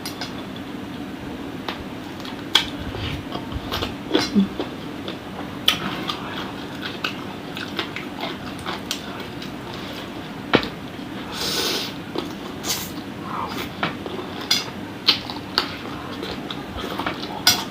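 Close-up eating sounds of chicken-feet satay being chewed, with scattered sharp clicks and taps of skewers and plate over a faint steady hum.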